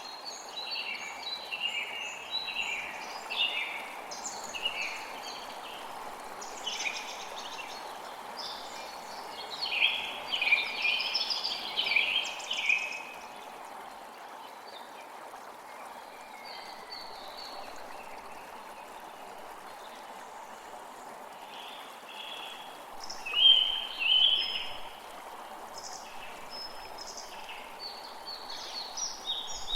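Creek water flowing steadily, with forest birds chirping and singing over it. The bird calls come thick for the first dozen seconds, thin out for several seconds, and pick up again near the end.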